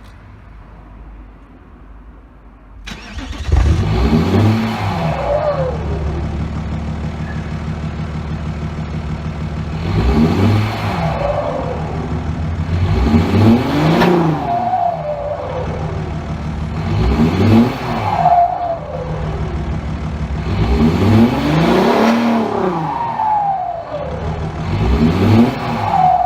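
Audi A4 B6 2.5 TDI V6 diesel engine with a straight-piped exhaust, starting about three seconds in, then idling and revved several times, each rev rising and falling back to idle.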